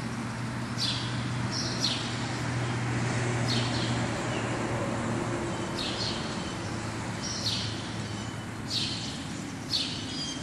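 A bird chirping: short, sharp, high calls repeated every one to two seconds, over a steady low hum.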